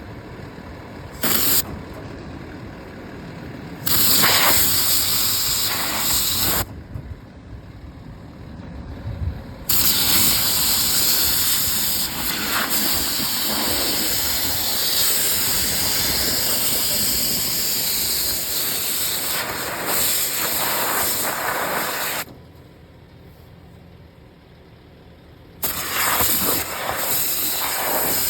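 Hydro-excavation truck's high-pressure water jet spraying with a loud hiss as it blasts apart a pumpkin, over the truck's engine running underneath. The spray cuts in and out, with two pauses of a few seconds where only the engine is heard.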